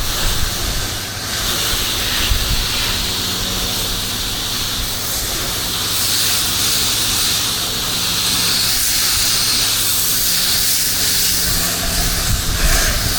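Pressure washer spraying water in a steady hiss, with the machine's engine humming steadily underneath.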